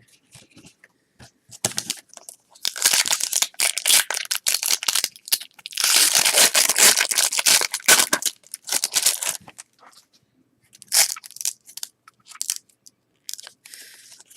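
A trading-card pack wrapper being torn open and crinkled: two long spells of crackling, then a few brief rustles near the end.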